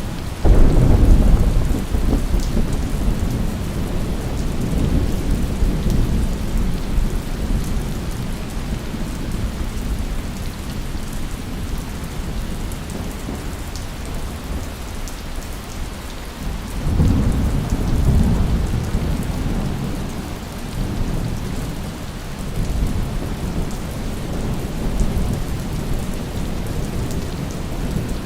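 Steady heavy rain with thunder: a loud rumble breaks about half a second in and rolls for several seconds, another long rumble comes about 17 seconds in, and fainter rumbles swell near the end.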